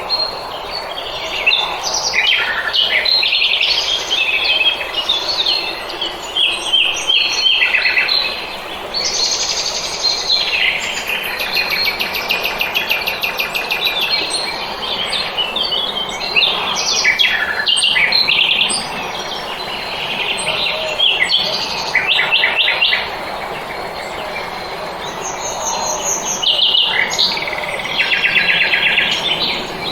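Several small songbirds singing and chirping together in a dawn chorus, with overlapping chirps and fast trills over a steady background hiss.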